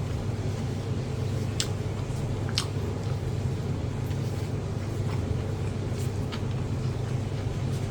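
Eating sounds: a few sharp clicks and light taps from handling food and utensils, over a steady low hum.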